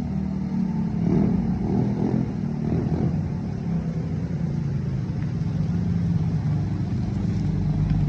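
GY6-style 50cc scooter's single-cylinder four-stroke engine running steadily, with a few small rises and falls in pitch about one to three seconds in.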